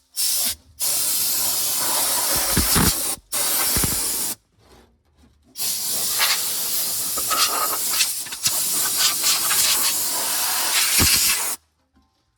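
Compressed-air blow gun hissing in four blasts, the last one about six seconds long, blowing leftover dry leaves and debris off an engine.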